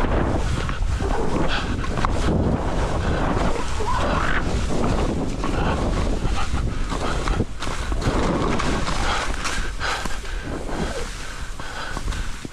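Wind buffeting the microphone of a moving skier, over the hiss and scrape of skis carving through deep snow.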